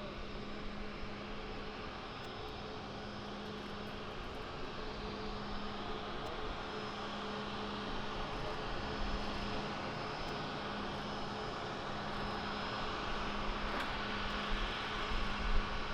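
Aircraft engines running with a steady hum and whine over a broad rush, slowly growing louder.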